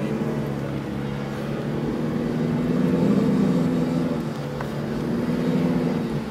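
Four-wheel drive's engine running as it drives through beach sand, heard from inside the cabin; the engine note climbs to its loudest about three seconds in, eases off, then rises again near the end.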